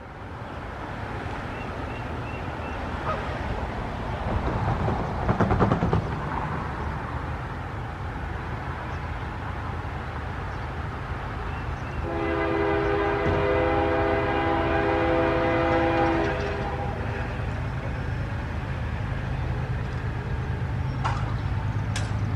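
Diesel freight locomotives of a Norfolk Southern train running with a steady low rumble, then sounding one long multi-tone horn blast about twelve seconds in that lasts around four seconds.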